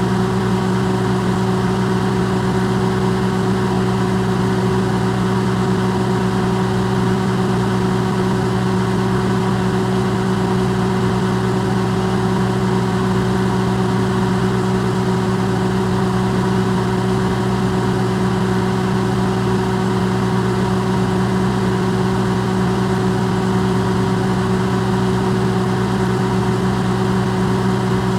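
Microwave oven running, recorded amplified: a steady mains hum with a fan whir, unchanging throughout.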